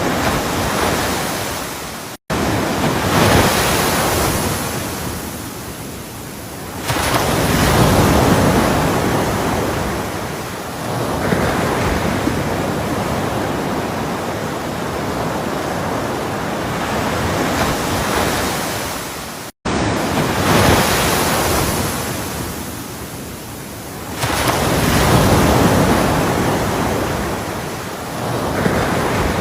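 Ocean waves breaking and washing up, the surf noise swelling and ebbing every four to five seconds. The sound cuts out abruptly for an instant twice.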